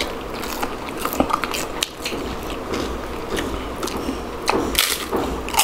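Crunchy bites and chewing of raw cucumber slices, an irregular run of wet crunches.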